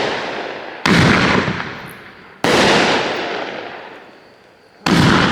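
A consumer firework cake firing shot after shot: three sudden loud bangs about a second and a half to two and a half seconds apart, each trailing off in a long fading rush of noise.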